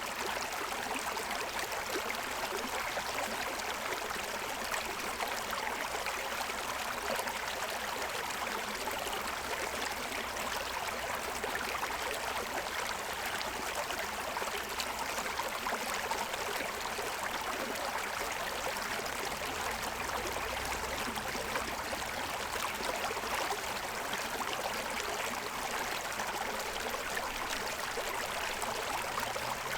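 Shallow forest stream running over the stones of its bed: a steady rush of water, even throughout.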